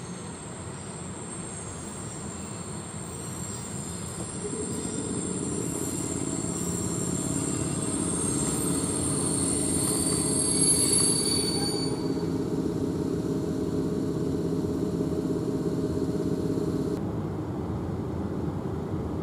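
An EU07 electric locomotive hauling a passenger train pulls in and brakes to a stop. High brake and wheel squeal runs over a steady hum from the locomotive, loudest about eleven seconds in. The squeal stops about twelve seconds in, and the hum fades a few seconds later as the train halts.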